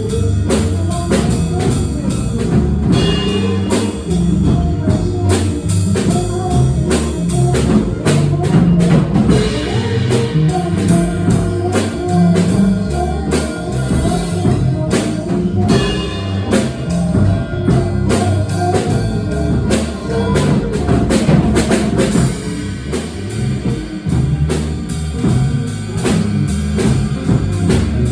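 Small jazz band playing, with a drum kit keeping time under a walking electric bass line and other pitched instruments.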